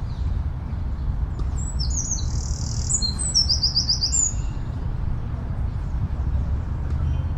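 A songbird sings one short, high-pitched phrase that ends in a quick run of repeated notes, over a steady low rumble of distant city traffic.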